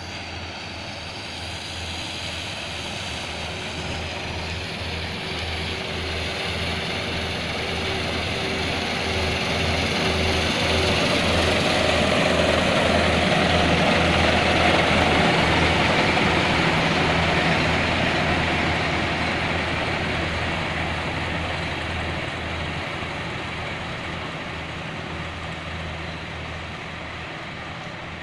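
Self-propelled combine harvester running, with a steady low diesel engine hum under a broad mechanical clatter. It grows louder to a peak about halfway through, then fades again.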